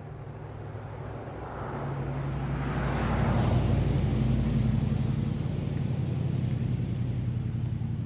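A motor vehicle's engine running with a steady low hum, growing louder over the first few seconds. A rush of noise peaks near the middle, as when a vehicle draws close or passes, and the hum stays loud after it.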